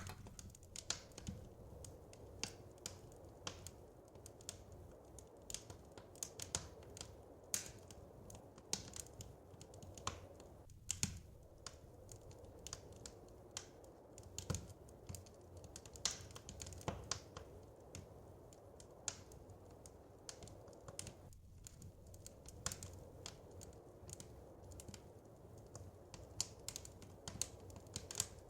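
Wood fire crackling in a fireplace: irregular sharp pops and snaps, several a second, over a soft steady low rumble.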